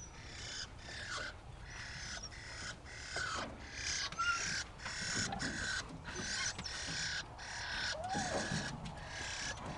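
Birds calling harshly and over and over, about two calls a second, around a nest of chicks in a tractor, with the parent birds close by as a dog searches for the nest.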